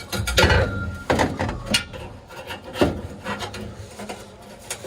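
Irregular metal scraping, rubbing and knocks as exhaust parts are worked on under a car, with a short squeak about half a second in.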